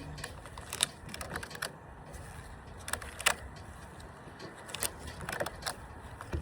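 Rubber bands being stretched and snapped onto a watermelon: a series of irregular sharp snaps and clicks, the loudest a little after three seconds in.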